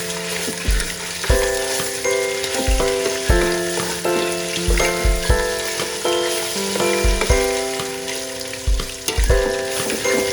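Food frying, with a constant sizzle, under light background music that has a steady beat.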